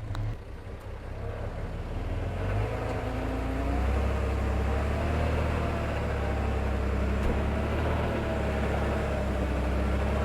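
Diesel engine of heavy construction machinery, rising in load over the first few seconds and then running steadily at high revs with a wavering whine.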